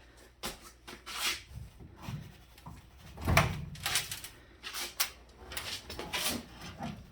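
Knocks and clicks from handling a reskinned aluminum under-bed toolbox door, a string of separate strikes with the loudest thump about three and a half seconds in.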